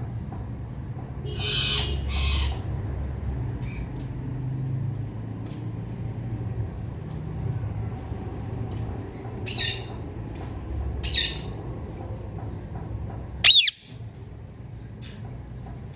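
Female Indian ringneck parakeet giving short, harsh squawking calls: a pair near the start, two more past the middle, and the loudest near the end, a sharp call that sweeps quickly in pitch. A steady low hum runs underneath.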